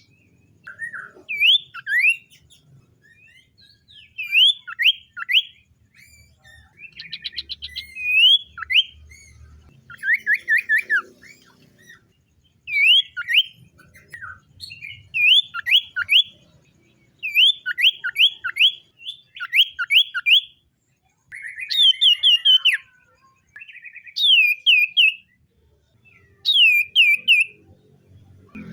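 Common iora singing: repeated short phrases of two to four quick up-slurred whistles, one phrase every second or two, with a short rattling trill now and then.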